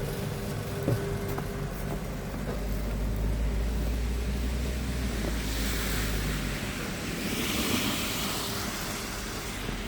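Car traffic on a street: a steady low engine hum throughout. In the second half, a vehicle's tyre hiss swells, peaks and fades as it passes.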